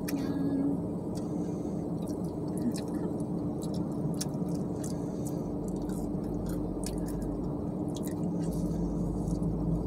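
A person chewing food close by, with scattered soft clicks and mouth sounds, over a steady low hum inside the car cabin.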